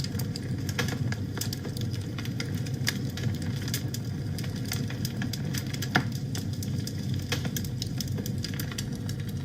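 Wood fire burning in a fireplace: a steady low rumble of flames with frequent small crackles and pops, and one sharper pop about six seconds in.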